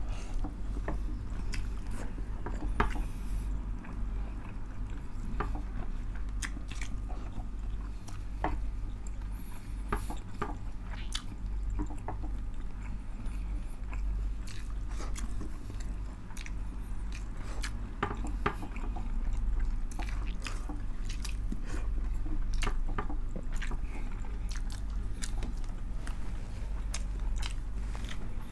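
Close-miked chewing and lip smacking of people eating tinumis, pork stewed in pig's blood, with their hands, with many wet mouth clicks and fingers being sucked clean. A steady low hum runs beneath.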